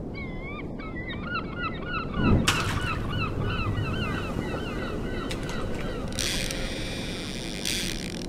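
A flock of birds calling over and over in short, wavy honking notes, over a steady rush of wind or water. There is a thump about two seconds in.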